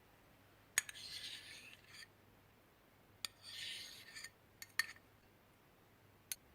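Slime-making containers and utensils being handled: a sharp click followed by about a second of scraping, then again the same, then a few lighter clicks.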